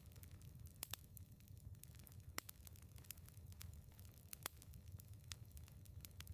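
Wood fire in a fireplace crackling: quick, irregular pops and snaps, a few of them louder, over a low steady rumble of the burning.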